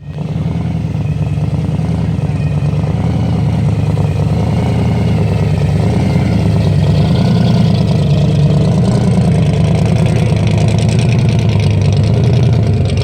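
Loud car engine running steadily at a low, even pitch, with a fast pulsing rumble.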